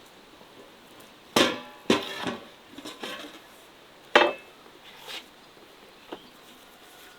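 Cookware clanking: a handful of sharp metal knocks, several with a short ring, the loudest about four seconds in.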